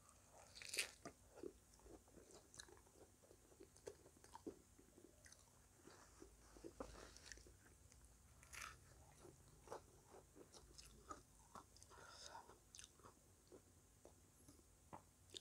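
A person biting and chewing a crisp fried snack: quiet, irregular crunches, the sharpest about a second in.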